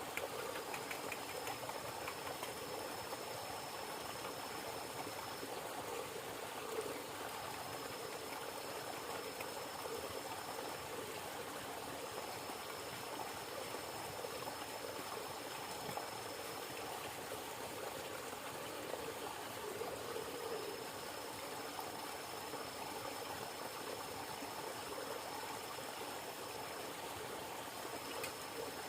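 River water flowing steadily. A thin, high, steady whine sounds over it in stretches of several seconds, breaking off and starting again about five times.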